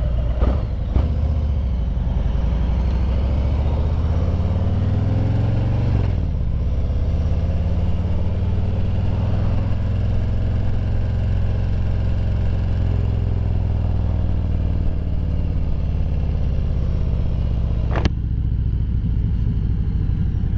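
Harley-Davidson Road Glide Limited V-twin running through Vance and Hines Eliminator 400 slip-on mufflers, heard from inside the rider's helmet on the move: it pulls up in pitch through a gear, drops sharply on an upshift about six seconds in, then cruises steadily with a throaty but not very loud note. Sharp clicks come near the start and again near the end.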